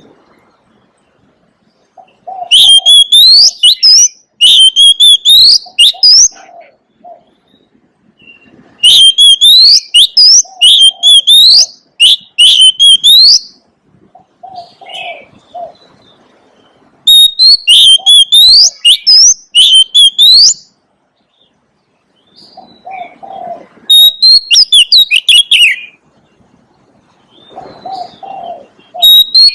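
Oriental magpie-robin singing loud bursts of rapid, sweeping whistled notes, each phrase lasting a few seconds, with pauses between them; softer low calls sound in the gaps.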